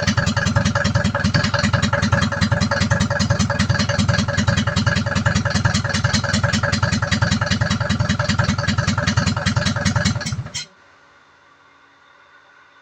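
Engine meant for a homemade tractor running steadily with an even, rapid firing beat, then cutting off abruptly about ten and a half seconds in, leaving only a faint hum.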